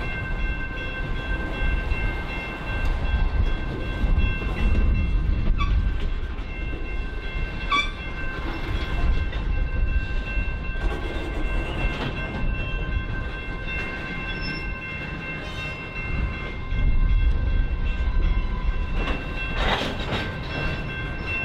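Freight train moving along the track: a low rumble that swells and fades twice, over a steady set of high ringing tones, with a few sharp clanks.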